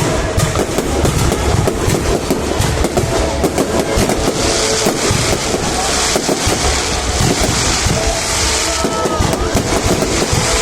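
Fireworks display: a dense, continuous stream of pops and crackles, with a stretch of high hissing crackle from about four and a half to nine seconds in.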